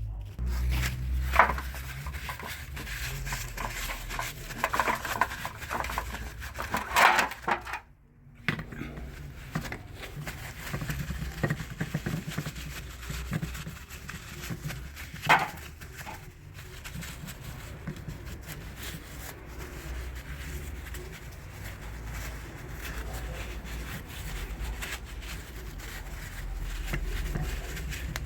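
Handling noises of parts and tools: a few scattered knocks and clicks, the loudest about seven seconds in and about fifteen seconds in, over a low steady hum.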